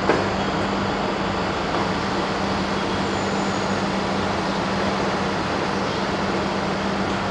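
Double-deck electric regional train standing at the platform, its onboard equipment running with a steady hum and a constant low tone. A short knock comes just after the start.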